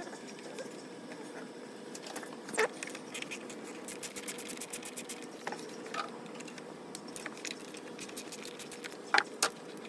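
Scattered clicks and light rattling of small objects being handled, with a sharp knock about two and a half seconds in, a run of quick light ticks in the middle and two sharp clicks near the end, over a steady low hum.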